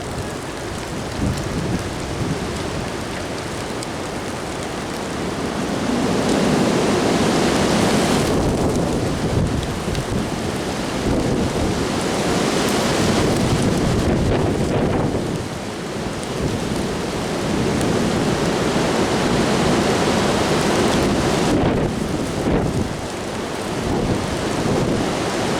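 Strong gusty wind rushing and buffeting the microphone, swelling about six seconds in and easing briefly twice later on.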